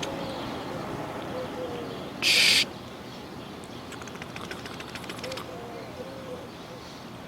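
Soft, low hooting or cooing bird calls in two short series, one early and one about five seconds in, over a steady low background rumble. A brief loud hiss cuts in a little over two seconds in.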